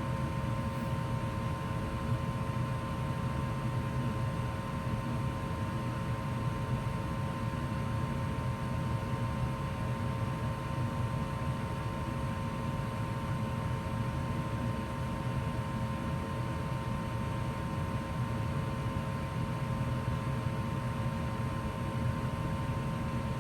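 A 2004 Goodman gas furnace running steadily in heat mode: an even low rumble with two steady hum tones over it, unchanged throughout.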